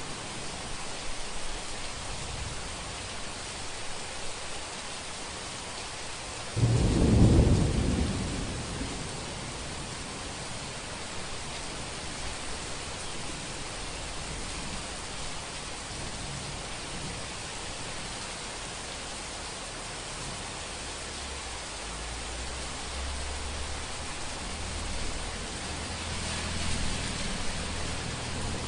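Steady rain falling, with a sudden clap of thunder about six and a half seconds in that rumbles away over a couple of seconds. Low thunder rumbles again near the end.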